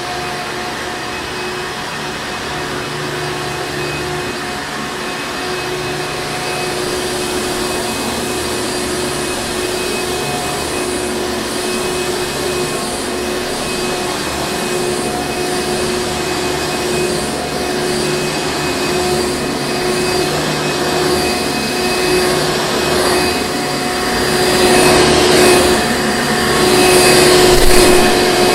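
Hoover Encore Supreme vacuum cleaner running: a steady motor whine over rushing air. It slowly grows louder and surges louder and more uneven over the last few seconds.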